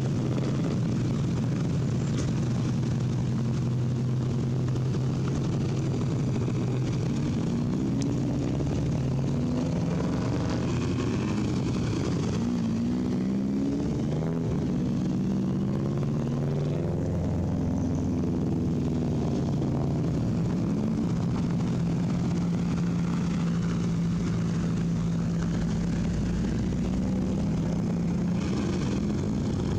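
Rally car engine running with a steady, droning note. Around the middle its pitch rises and falls several times as it is revved, then it settles on a slightly higher steady note.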